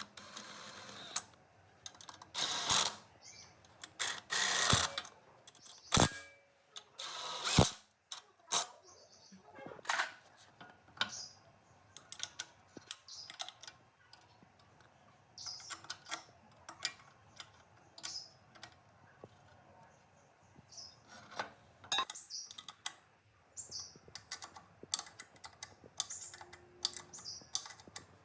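Workshop handling of tools and metal engine parts: scattered clicks, taps and clinks, with several short, louder rushing bursts in the first eight seconds.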